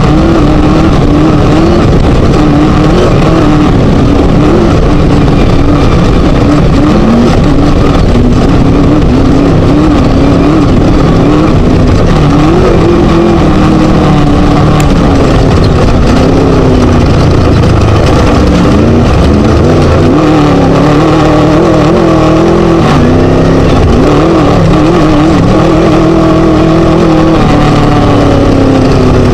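Class 1 desert race buggy's Scat engine running hard, its revs rising and falling continually as the car is driven, over a loud steady rush of noise.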